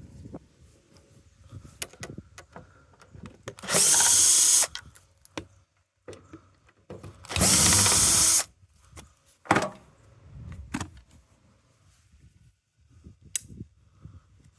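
Cordless drill-driver running in two bursts of about a second each, backing out screws to take off a washing machine door, with clicks and knocks of handling between them.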